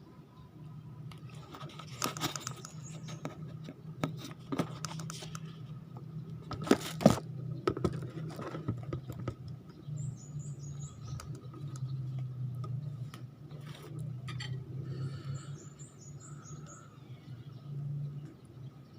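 Close-up eating sounds: chewing, mouth clicks and smacks, with a few sharper knocks, over a low steady hum. Two brief runs of faint high chirps come in around the middle and near the end.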